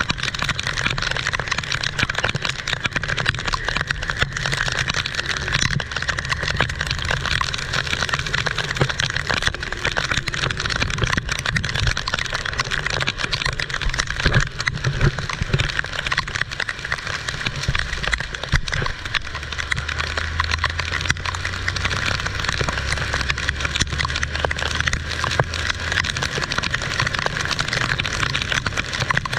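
Heavy rain pouring down, a steady dense hiss of drops striking surfaces. A low steady hum joins for several seconds about two-thirds of the way through.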